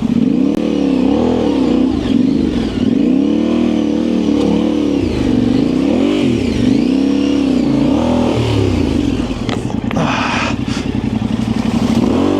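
Yamaha Ténéré 700's parallel-twin engine running on a trail ride, its pitch rising and falling every second or two as the throttle opens and closes. There is a brief hiss about ten seconds in.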